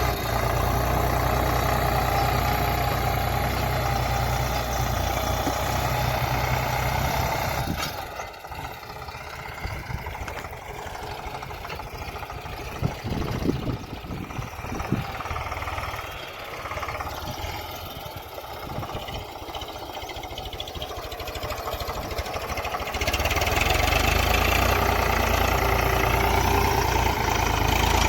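Eicher tractor's diesel engine idling steadily with its hood removed. About eight seconds in the engine sound falls away to a much quieter background with a few knocks, and the steady running returns near the end.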